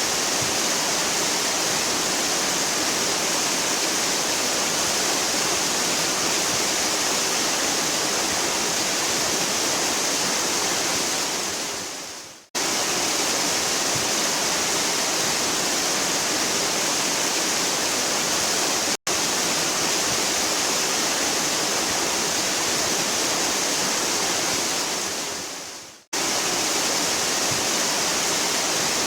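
Waterfall's steady, hard rush of falling water, heavy in the hiss. The sound fades out and cuts straight back in twice, about twelve seconds in and near the end, with an instant's dropout between.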